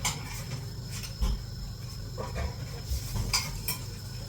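Scattered clicks and knocks of cookware and utensils being handled, over a steady low hum.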